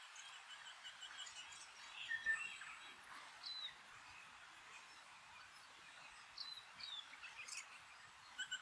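Eastern rosella calling: faint, scattered short whistled notes and chirps, some with a quick downward hook, over a steady outdoor hiss.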